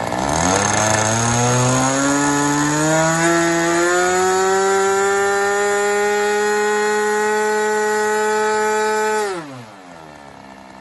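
ASP .61 two-stroke glow engine on a model airplane opened up to full throttle. Its pitch climbs for about four seconds, holds steady at a very high rev, then drops quickly back to idle near the end, where it keeps running much more quietly.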